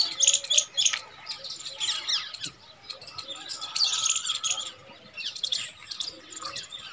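Many small birds chirping and twittering together, a dense, overlapping chorus of short calls.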